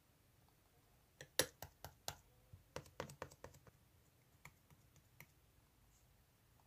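A quick, irregular run of sharp clicks, about twenty in all, starting about a second in and dying away by about five seconds, the first few the loudest.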